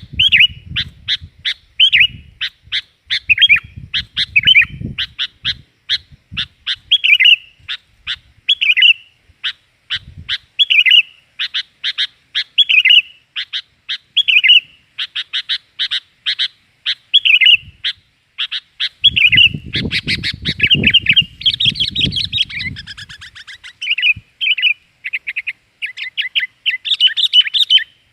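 Sooty-headed bulbuls (kutilang) calling noisily in quick runs of sharp, bright chirps, phrase after phrase: a lure recording of the kind used to draw in kutilang for trapping.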